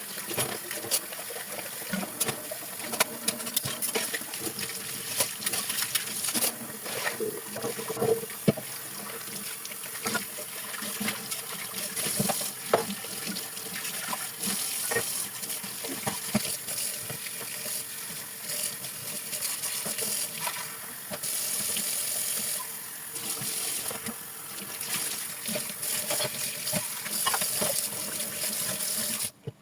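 Tap water running into a sink while dishes are washed by hand, with many light clinks and knocks throughout. It cuts off suddenly near the end.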